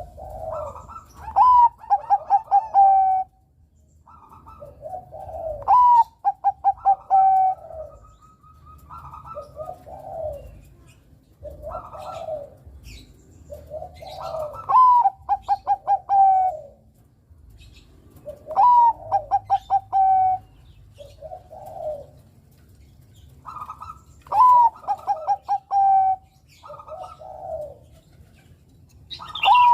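Bangkok-type zebra dove (perkutut) singing its repeated cooing song. Each phrase is a low coo, then a higher note and a quick stuttering run of short notes, and it comes back about every four to five seconds.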